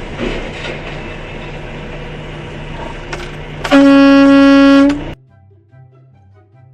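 Steady engine rumble, then a loud, single-pitched horn blast lasting just over a second that cuts off abruptly, followed by faint music.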